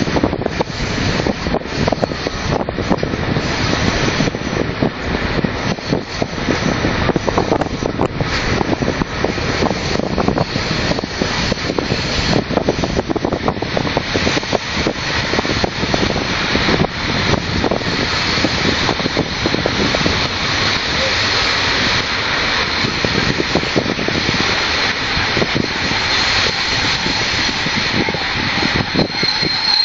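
Train running along the track, a steady loud rumble with dense clattering from the wheels and rails.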